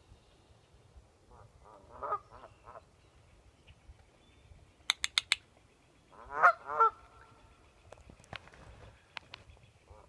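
Geese honking in two short bouts, the louder one about six seconds in. A quick run of four sharp clicks comes just before it.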